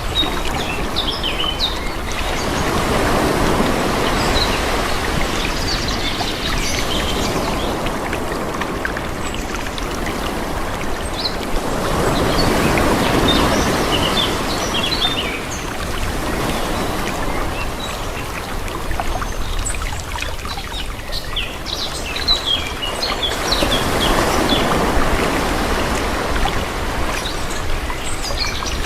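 Calm sea waves washing in, the surge swelling and ebbing three times about ten seconds apart, with birds chirping.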